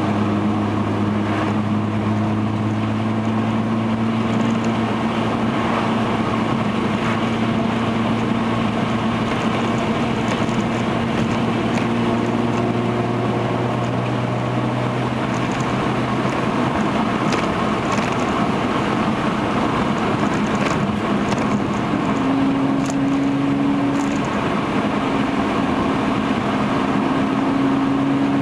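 Hyundai Genesis Coupe's 3.8-litre V6 through a Young Motors cat-back exhaust, heard inside the cabin while driving: a steady exhaust drone over tyre and road noise. The engine note rises a little about three quarters of the way through.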